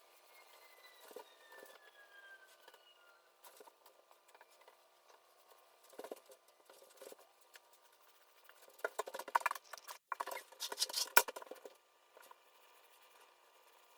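Paintbrush brushing on a wall while cutting in: faint scratchy strokes in short spells, busiest and loudest between about nine and eleven and a half seconds in.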